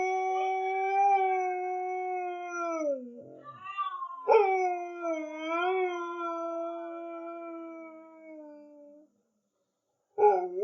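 A dog howling: one long, steady howl falls away about three seconds in. After a few short yelps a second howl starts, wavers and fades out. A new howl begins just before the end.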